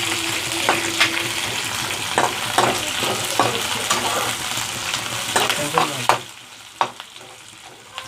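Sliced onions frying in hot oil in a kadhai, a steady sizzle with repeated scrapes and knocks of stirring. The sizzle and stirring fall away about six seconds in, with one more knock shortly after.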